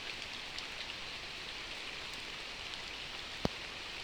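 Steady rain falling, with a single sharp click about three and a half seconds in.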